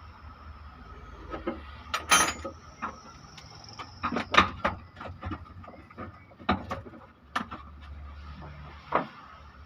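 Irregular knocks and clinks of metal tools and engine parts being handled during an engine teardown, with a louder ringing metal clatter about two seconds in.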